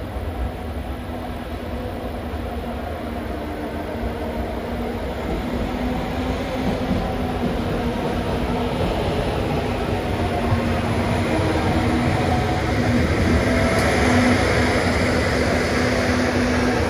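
Passenger train running past with a steady hum, growing steadily louder as it comes closer.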